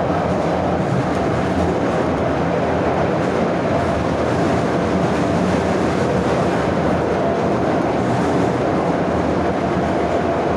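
Moscow Metro 81-717/714 "Nomernoy" subway car running at speed through a tunnel, heard from inside the car: a steady, loud rumble of wheels and running gear with a faint steady whine.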